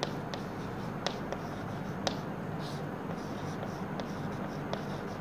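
Chalk writing on a blackboard: a string of sharp taps and short scratches, irregularly spaced, as letters are written out by hand, over a faint steady low hum.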